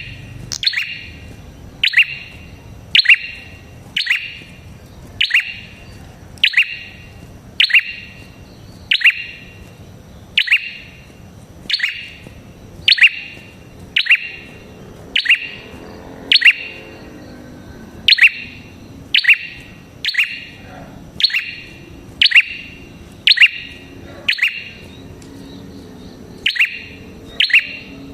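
Red-headed prenjak bird calling: a sharp, high chirp repeated about once a second, sometimes doubled, with a couple of brief pauses.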